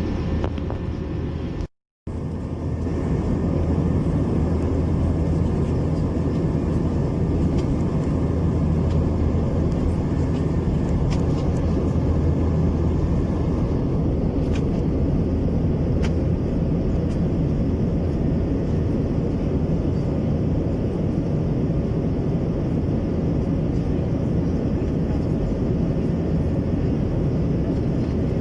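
Steady roar of jet engines and rushing air inside the cabin of an Airbus A321-200 airliner, with a deep hum underneath. The sound cuts out completely for a fraction of a second about two seconds in.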